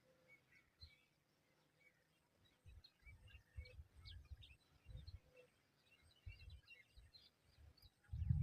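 Faint, scattered short bird chirps over a quiet outdoor background, with uneven low rumbles on the microphone and a louder low rumble setting in just before the end.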